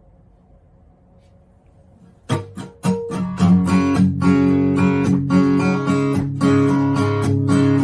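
Faint room tone, then about two seconds in an acoustic guitar starts strumming the intro of a song.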